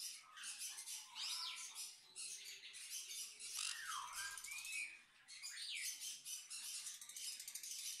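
Faint bird chirps: about four short whistled calls that swoop up and down in pitch, over a steady hiss.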